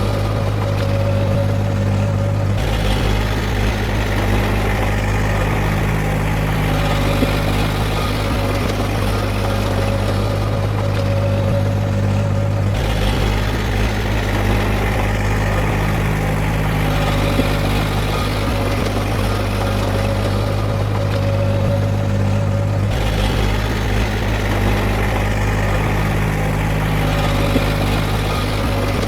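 Heavy diesel engine of earthmoving machinery running steadily with a deep hum, its sound shifting slightly about every ten seconds.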